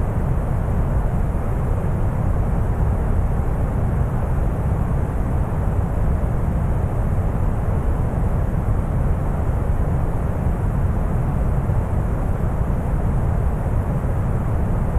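Steady deep brown noise: an even, unchanging rumbling hiss that is heaviest in the bass and thins out toward the highs.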